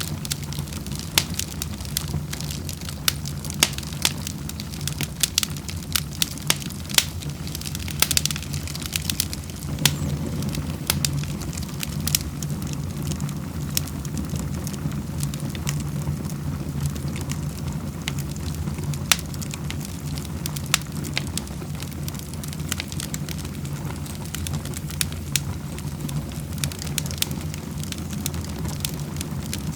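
Wood fire crackling in a fireplace: irregular sharp pops and snaps, most frequent in the first half, over a steady low rumble.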